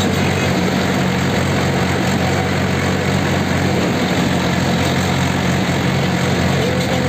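Tractor diesel engine running steadily under way, heard from on board.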